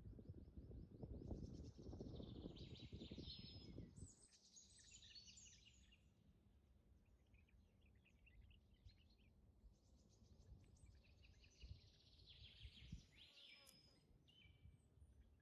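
Faint birds chirping and trilling in two spells, one in the first few seconds and another from about ten to fourteen seconds in, over a low rumble that fades after about four seconds.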